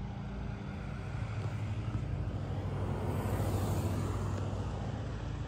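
Car engine idling, a steady low hum, with wind buffeting the microphone through the middle.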